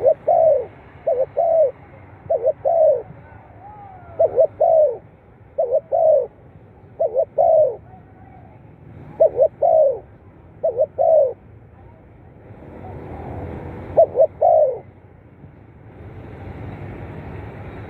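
Spotted dove cooing: short phrases of paired coos, about one a second, with a pause before a last phrase. A steady background noise rises near the end.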